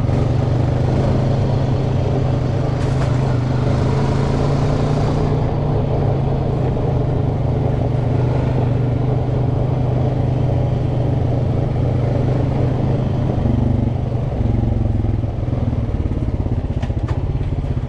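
Four-wheeler (ATV) engine running steadily under way on a dirt trail, with a rush of hiss a few seconds in and the engine easing off slightly near the end.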